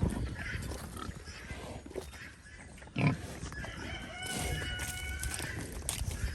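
Berkshire pigs grunting and squealing at feeding time, with one loud short grunt about three seconds in and a long held squeal just past the middle.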